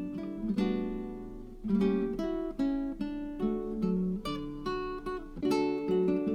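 Background music: an acoustic guitar playing plucked and strummed chords, each struck chord ringing out before the next.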